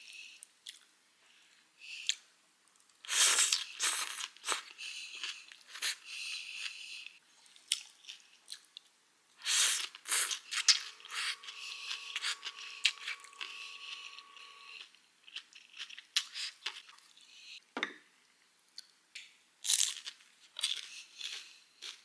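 A person chewing and crunching mouthfuls of bún bò Nam Bộ, the noodle salad's raw vegetables and herbs crackling in irregular bursts.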